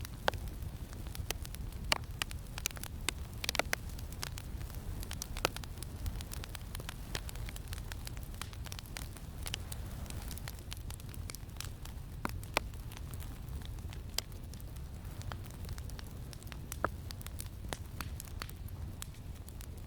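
Wood campfire crackling with sharp, irregular pops, more frequent in the first few seconds, over a steady low rumble of wind.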